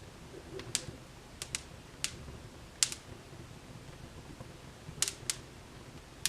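Wood fire crackling in a fireplace: irregular sharp pops and snaps, some in quick pairs, over a low steady rush of the flames.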